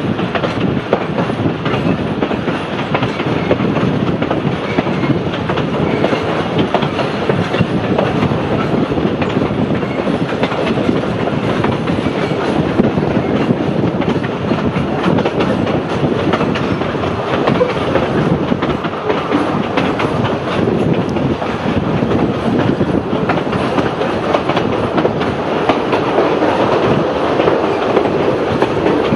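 A narrow-gauge heritage passenger train running along the track, heard from on board: the wheels clatter over the rails and the carriage rattles steadily throughout.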